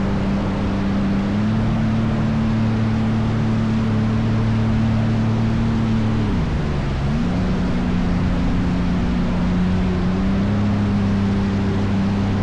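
Jet ski engine running at a steady cruising speed, with a heavy rush of wind and spray. About six seconds in the engine note dips briefly as the throttle eases, then climbs back up.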